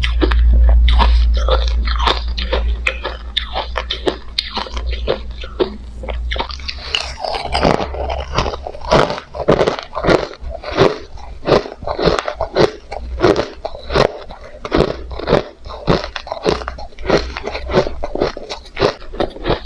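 Crushed ice being chewed close to the microphone: hard, rapid crunches, settling to about two a second in the second half. A low rumble sits under the crunching for the first few seconds.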